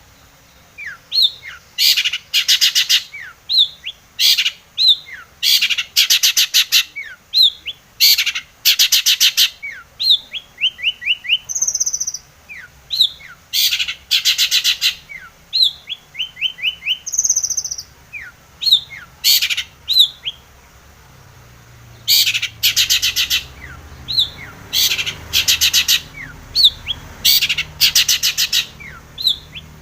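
Long-tailed shrike calling: short bursts of harsh, rasping chatter repeated every second or so, mixed with short high whistled notes. The calling breaks off briefly about twenty seconds in, then resumes.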